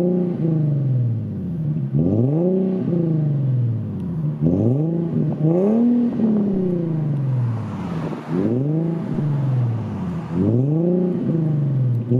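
Infiniti G37's 3.7-litre V6 through a custom exhaust, revved in a series of quick throttle blips: each time the pitch shoots up and then falls back over a second or two, about every one to two seconds.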